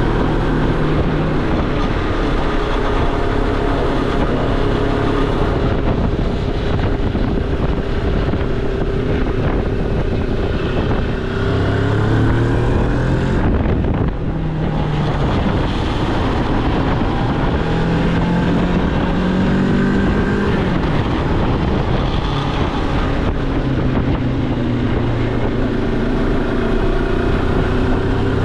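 Moto Morini X-Cape's parallel-twin engine running under way, its pitch rising and falling several times with throttle and gear changes, with a brief dip about halfway through. Wind noise on the microphone runs beneath it.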